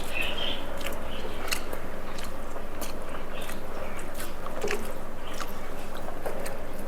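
Close-up eating sounds: a person chewing food, with scattered small clicks and scrapes.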